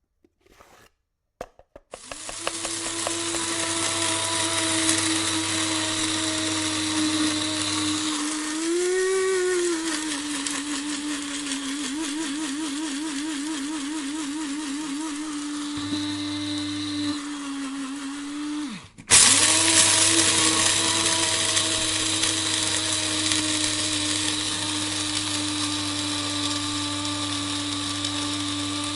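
Electric coffee grinder switched on after a few clicks, its motor running with a steady hum as beans are ground; the pitch rises and wavers for a while. About two-thirds of the way through the motor winds down and cuts out, then starts again at once and runs on steadily.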